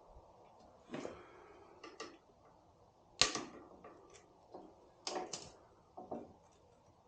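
Irregular clicks and knocks of hand tools and motorcycle parts being handled, with one sharp knock about three seconds in.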